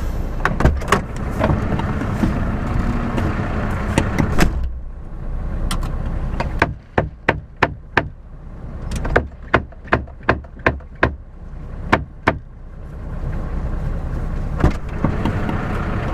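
Frozen truck windscreen wipers being banged against the glass to knock the ice off: a run of about fifteen sharp knocks, roughly two a second, in the middle, over the steady noise of the idling truck and wind, which drops away while the knocking goes on.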